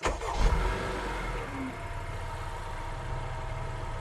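Car engine running: the sound starts abruptly, peaks briefly about half a second in, then settles into a steady hum.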